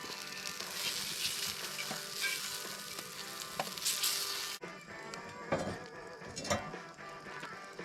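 Peppers and turkey sizzling in hot oil in a pan. The sizzle cuts off abruptly about four and a half seconds in, leaving quieter background music.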